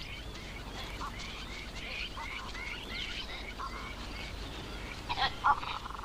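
Birds calling: a quick run of short, chirping calls, with a louder cluster of calls a little after five seconds in.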